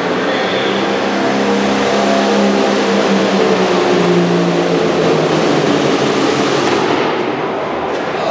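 A super farm pulling tractor's turbocharged diesel engine running loud and hard under load, easing off about seven seconds in.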